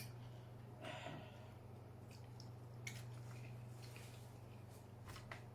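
Faint sounds of a person eating: a short sniff or breath about a second in and a few small clicks of mouth and food, over a steady low hum.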